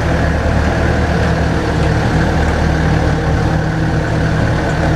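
Shuttle vehicle's engine running steadily, heard from aboard as an even low drone.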